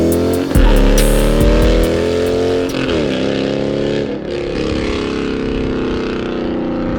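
Car engine revved with the throttle blipped, the pitch jumping and falling back about half a second in and again near three seconds, then settling into a steadier run.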